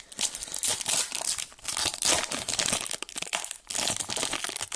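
Pokémon card booster pack wrapper crinkling as it is torn open and handled, a dense crackle with a couple of short pauses.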